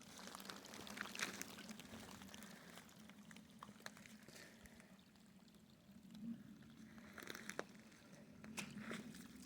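Faint trickling of water flowing through a small inlet channel, with a few light clicks scattered through it.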